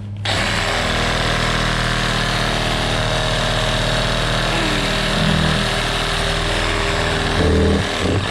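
A motor-driven machine switches on abruptly and runs steadily, with a low hum under a broad hiss.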